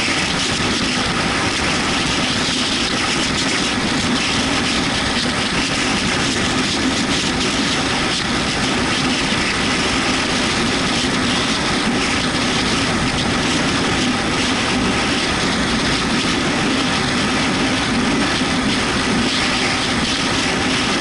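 Yamaha MT-125's single-cylinder engine running at a steady speed under a constant rush of wind and road noise while riding.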